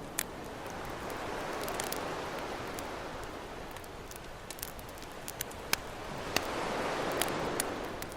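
Ocean waves washing onto a beach in two slow swells, with a campfire crackling over them in sharp, scattered pops.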